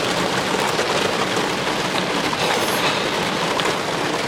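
Heavy rain pouring on a Jeep's roof and windshield, heard from inside the cab as a steady, dense hiss.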